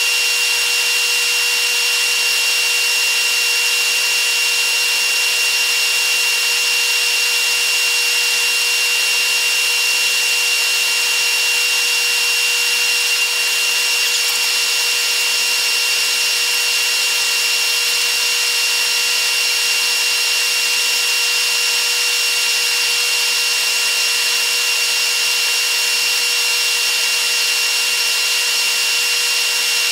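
Steady, high-pitched whirring hiss with two constant whining tones: the running noise of a TRA EMU100 electric train, sped up eightfold along with the time-lapse picture.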